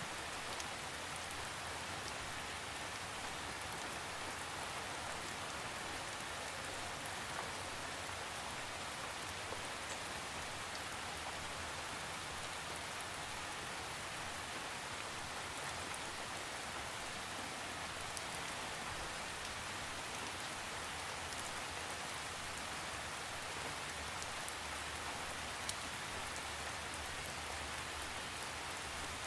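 Steady rain falling on a surface, a constant even hiss with scattered individual drop ticks and no thunder.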